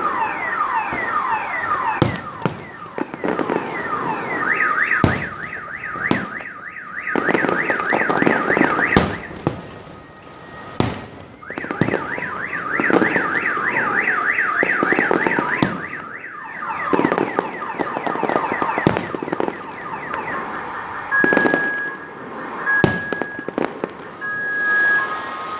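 Fireworks banging every second or two while car alarms wail in repeated rising and falling sweeps. From about twenty seconds in, a steady beeping alarm tone joins.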